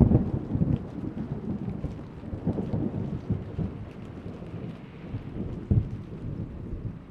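Thunder rumbling and slowly dying away, with a few sharper cracks in the roll, over steady falling rain.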